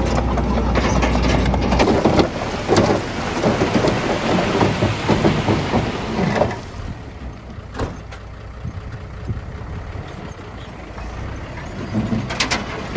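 Heavy diesel earthmoving machinery working: an engine runs with a rattling clatter of knocks through the first half, then drops quieter about halfway through, with one sharp click, and builds again near the end.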